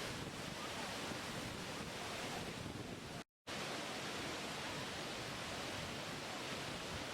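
Waterfall's steady rushing water, an even unbroken hiss, cut off to silence for an instant about three seconds in.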